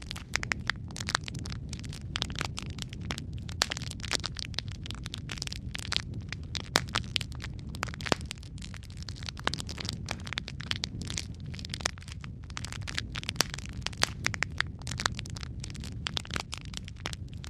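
Wood fire crackling in a fireplace: many irregular pops and snaps over a steady low rumble of the flames.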